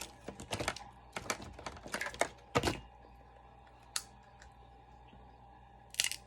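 Irregular clicks and clatter of small objects being handled: a quick run of them in the first three seconds, then single clicks about four and six seconds in.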